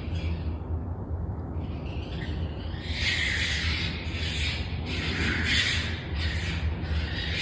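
A series of about six short, harsh, noisy animal calls starting about three seconds in, after fainter calls earlier, over a steady low hum; the calls are taken for raccoons calling in woodland.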